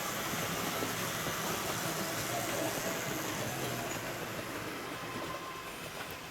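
Model train running along the layout's track, a steady whirr and rumble of wheels and motor that eases off slightly near the end.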